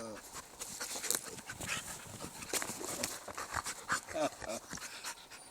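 Norwegian Elkhounds panting and moving close to the microphone, with a short whine about four seconds in.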